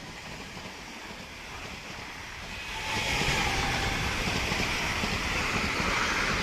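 A Class 745 electric express train passing through the station at speed. The rush of wheel-on-rail and air noise builds about two and a half seconds in and then stays loud and steady, with a low rumble under it.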